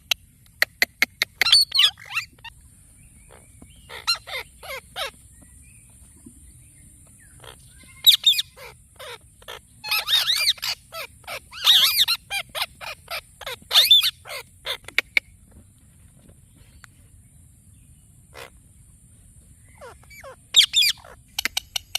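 Indian ringneck parrot calling in runs of rapid, shrill chirps and screeches, four bouts separated by pauses, the longest in the middle.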